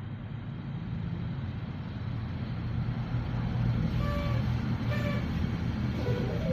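Oxygen EK-188 electric kettle heating water: a steady low rumble that slowly grows louder as the water nears the boil. Two short pitched calls sound about four and five seconds in.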